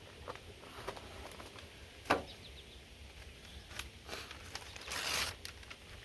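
Handling noises as a beekeeper's smoker is loaded with cloth fuel and lit: scattered light clicks, one sharper click about two seconds in, and a short rustling rush near the end.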